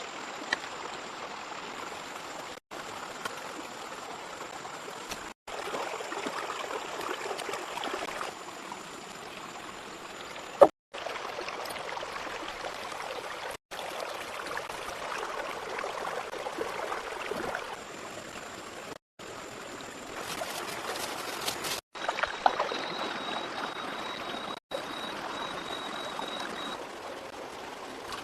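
Steady rushing of water, as from a stream or heavy rain, that drops out briefly several times. A single sharp knock comes about ten and a half seconds in.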